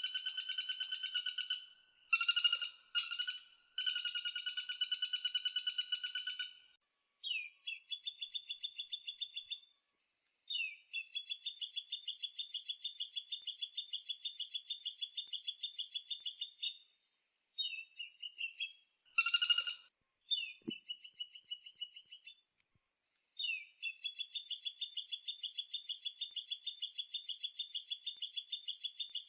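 Woodpecker calling: long, fast rattling series of high repeated notes, in several bouts separated by short breaks.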